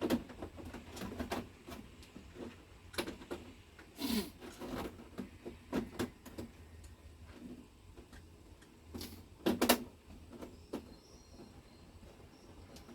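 Irregular clicks, knocks and rustles of hands working with parts and tools, with a louder pair of knocks about nine and a half seconds in, over a low steady hum.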